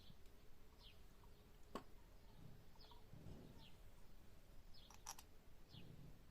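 Faint bird chirping: short falling chirps repeated about once a second. A sharp click comes just under two seconds in, and a quick double click about five seconds in.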